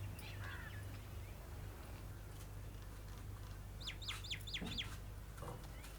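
A bird calling: a quick run of about five high chirps about four seconds in, with fainter chirps near the start, over a faint steady low hum.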